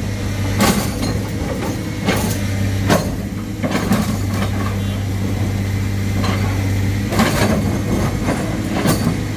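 Heavy diesel engine running steadily, with about six sharp metallic clanks at irregular intervals, typical of an excavator working on rock.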